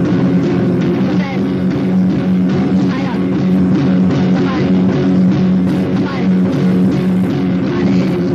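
Punk band recording in the crust/grind style: loud, dense, distorted guitars and bass over a drum kit, played from a compilation cassette.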